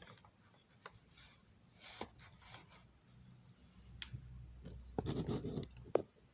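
Faint clicks, scratches and rubbing from small objects being handled on a workbench, with a louder stretch of rustling and scraping about five seconds in.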